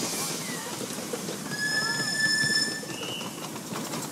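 Miniature railway train rolling on its rails with a soft clatter of wheels. About one and a half seconds in, a high steady squeal from the train lasts just over a second, followed by a brief higher chirp.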